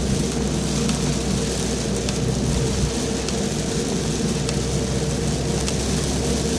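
Heavy rain falling in a steady downpour, with scattered drop ticks and a steady low hum underneath.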